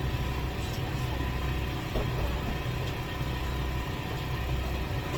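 A steady low motor hum, like an idling engine, with a sharp knock right at the end.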